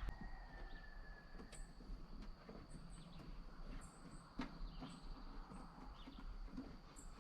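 Faint, short, high bird chirps scattered over a quiet background with a steady thin high whine, and a few soft clicks of handling.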